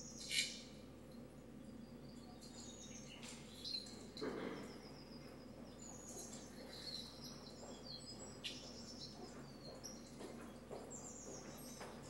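Faint birdsong: short high chirps and quick whistled notes from more than one bird, scattered throughout over a low steady hum.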